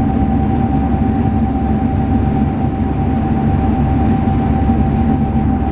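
Cabin noise of a Saab 340B turboprop airliner in flight: the two General Electric CT7 engines and propellers make a steady, loud drone with a constant whine running through it.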